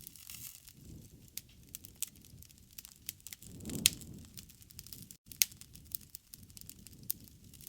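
Wood campfire crackling: irregular sharp pops and snaps over a soft low rustle of the flames, with a louder swell and pop about four seconds in.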